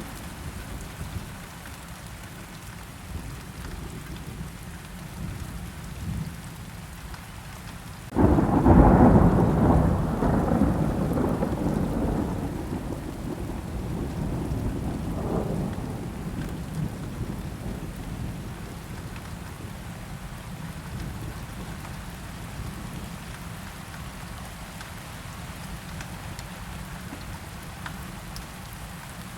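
Steady rain falling, with a loud thunderclap about eight seconds in that rumbles on and fades over the next several seconds, swelling once more briefly before dying back to the rain.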